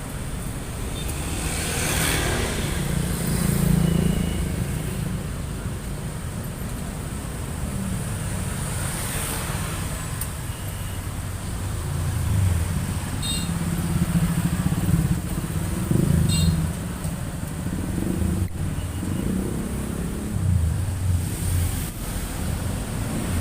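Mixed road traffic of cars, trucks and motorcycles passing steadily: a continuous engine rumble, with individual vehicles swelling louder as they go by every few seconds.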